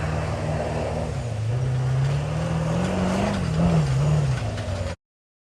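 A vehicle engine running, its pitch rising over about two seconds, then falling back and wavering. The sound cuts off abruptly near the end.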